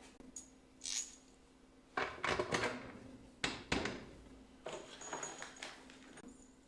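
Small metal hardware, washers and bolts, being rummaged for and handled: a series of short clatters and clinks, some with a faint metallic ring.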